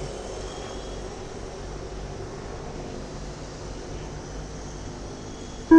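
Steady low background noise, then near the end a loud, steady electronic start tone sounds abruptly: the race timing system's signal to start the heat.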